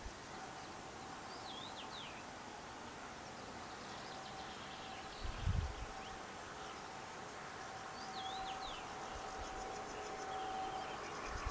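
Wild birds calling at a lakeshore: a short zigzag call twice, a few seconds apart, with quick high chattering from small birds near the end, over a steady faint hum. A low thud about five seconds in is the loudest moment.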